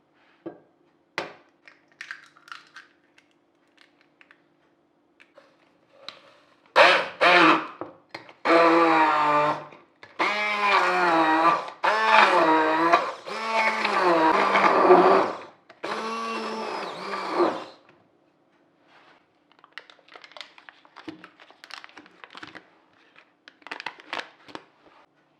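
Electric kitchen blender run in about seven short pulses, the motor pitch dipping and rising within each pulse. Small clicks and handling noises come before and after.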